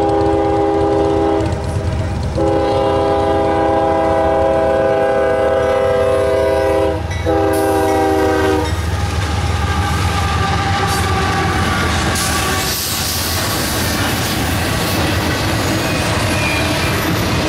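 Freight locomotive horn sounding three blasts of a multi-note chord: one ending about a second and a half in, a long one, then a short one ending near the middle. After the horn stops, the double-stack intermodal cars keep rolling over the crossing with a steady rumble, clatter and rising hiss of wheels on rail.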